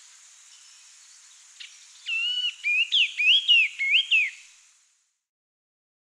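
A bird singing a loud run of about five clear, swooping whistled phrases, starting about two seconds in over faint hiss and distant bird notes, then stopping.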